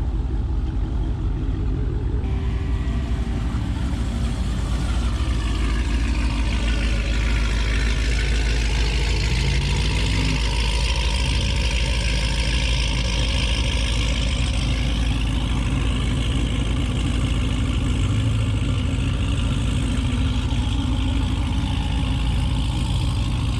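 Modern Dodge Hellcat and Scat Pack Hemi V8s idling and creeping past in a line, a steady deep rumble with the engine note shifting briefly around the middle.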